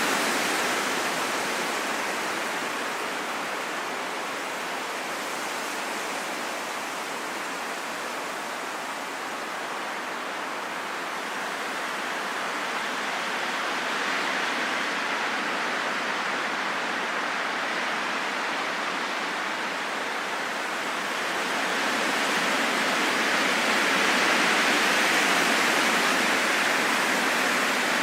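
Wind blowing as a steady rush that slowly swells and eases. It dips about a third of the way through and is loudest near the end.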